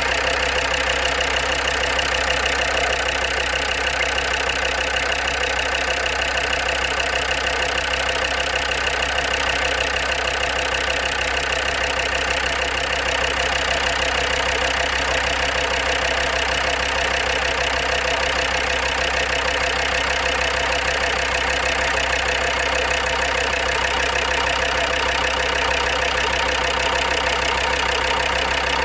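Land Rover Defender Td5 five-cylinder turbodiesel engine idling steadily, with the ticking and tapping that the owner has been unable to trace despite good oil pressure. He wonders whether it comes from the injectors.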